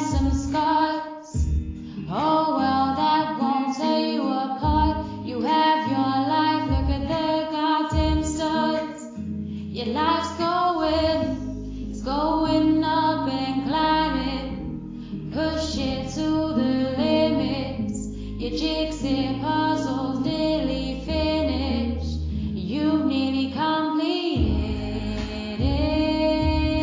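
A woman singing over a backing track.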